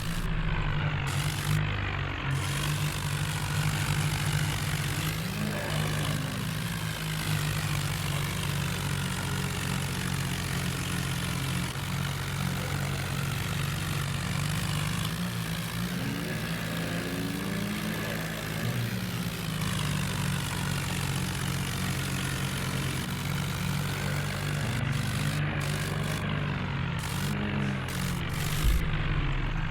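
Diesel tractor engines running steadily under load, with their pitch shifting a little now and then.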